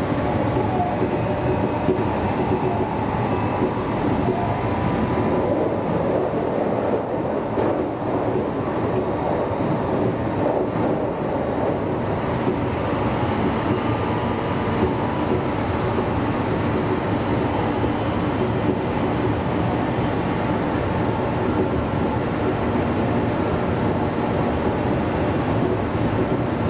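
Meitetsu 1200 series electric train running steadily at speed: continuous wheel-on-rail running noise with a few faint steady tones.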